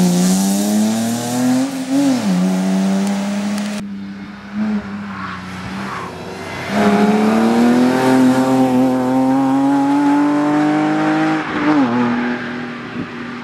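BMW E30 rally car's engine under hard throttle, its pitch climbing and then dropping sharply about two seconds in and again near the end, as at a gear change or a lift. After a short lull a few seconds in, it pulls again with a long, steady rise in pitch.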